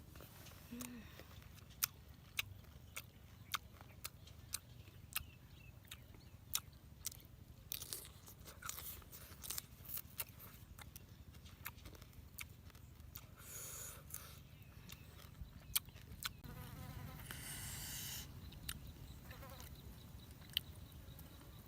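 Someone eating cooked fish: faint chewing and crunching, with sharp clicks roughly once or twice a second and two longer rustling stretches, one a little past the middle and one about three-quarters through.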